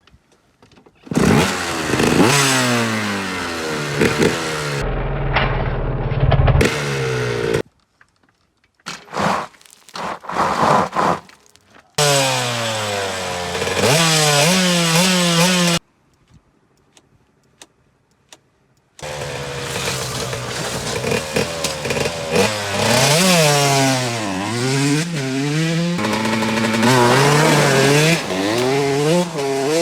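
Gas dirt bike engines revving up and down, shifting through the gears, in a series of short clips that cut off abruptly with brief quiet gaps between them.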